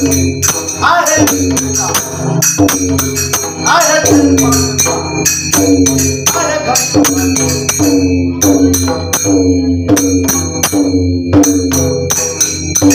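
Devotional bhajan with a voice singing phrases that slide downward, over a hand drum and jhal (brass hand cymbals) clashing in a steady, quick beat.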